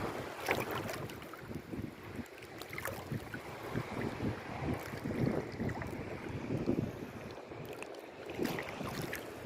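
Sea water sloshing and lapping in irregular surges, with a few short splashes and wind buffeting the microphone.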